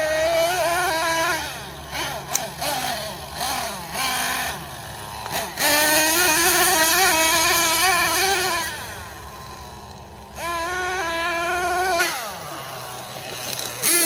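Small nitro engine of a Team Associated MGT 8.0 RC monster truck running at high revs in three runs, its pitch wavering as the throttle is worked. The longest run is in the middle.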